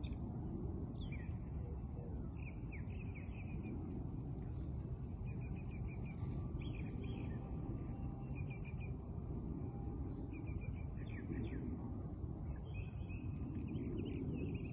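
Small birds chirping in quick little trills, again and again, over a steady low rumble of background noise.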